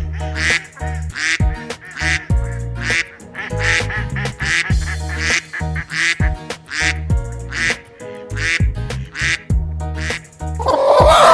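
Duck quacking repeatedly over background music with a steady beat. A louder animal call comes in near the end.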